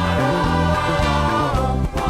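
Live gospel praise music from a band, with a steady bass line and sustained held notes; the music dips briefly near the end.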